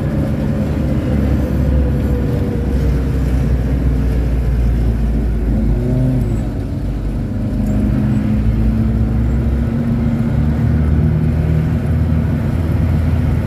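Jeep engine running as the vehicle drives, a steady low drone whose pitch shifts; it eases off briefly about halfway through, then picks up again.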